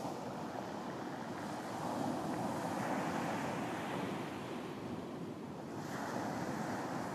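Ocean surf breaking and washing on a beach, a steady rushing that swells as waves come in, about two seconds in and again near the end.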